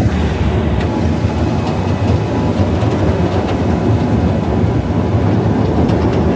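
Steady low rumble of a Thames Clippers passenger catamaran's engines with water rushing past the hull, heard from aboard the boat.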